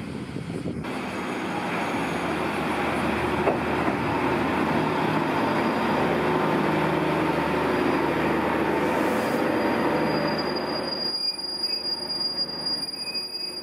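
Sea Side Liner diesel railcar pulling into a station, its engine and wheels loud as it draws alongside the platform. The noise drops off sharply about eleven seconds in as the train comes to a stop, leaving a thin high steady tone.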